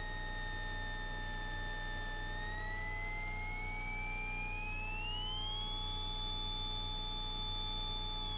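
Electrical whine in a Cessna 172S Skyhawk's intercom audio, its pitch following engine speed. It sags slightly, then rises steadily from about two and a half seconds in and holds higher near the end. A second steady tone and a low rumble run underneath.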